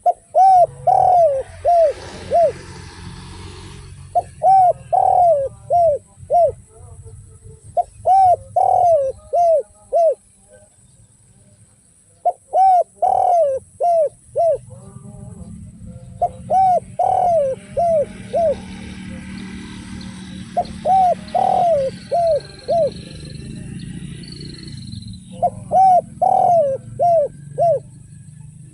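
Spotted dove (derkuku) singing its cooing song in short phrases of several notes, one phrase about every four seconds, seven times over. A faint hiss and a low hum run in the background.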